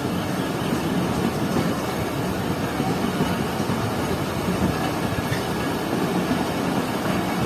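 Passenger train coaches rolling slowly on the rails and picking up speed, a steady rumble of wheels on track.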